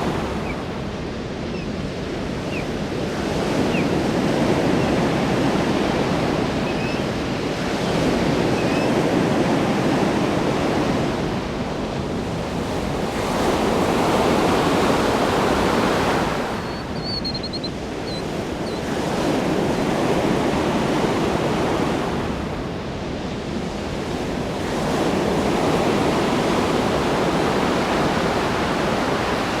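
Ocean waves breaking on a shore, the surf rising and falling in slow surges about every five to six seconds.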